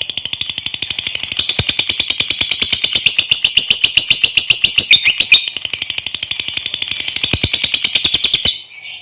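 Lovebird giving its long 'ngekek' chatter: a rapid, high, even string of sharp calls, about ten a second, that stops abruptly near the end.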